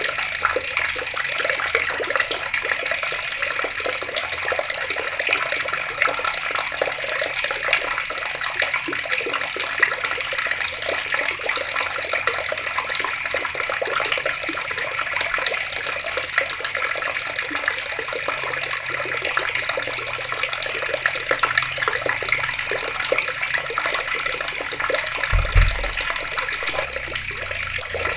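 Water pouring steadily from an open outdoor tap and splashing, an even unbroken rush. A brief low thump comes near the end.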